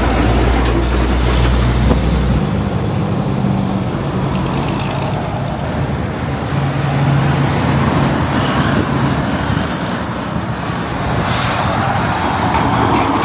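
Heavy truck diesel engines running in passing road traffic, with a steady low drone. A short sharp hiss of air about 11 seconds in, typical of a truck's air brakes.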